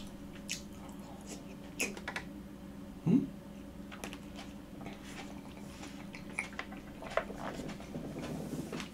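A person chewing a bite of fresh tomato with the mouth closed: soft wet squishes and small clicks, with a brief low hum about three seconds in.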